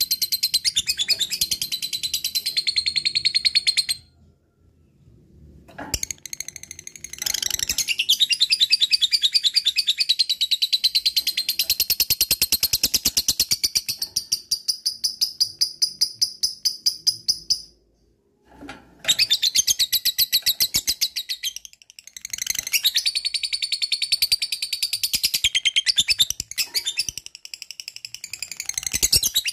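Lovebird giving its long 'ngekek' chatter: rapid, high, repeated notes in long unbroken runs, stopping twice for a second or two.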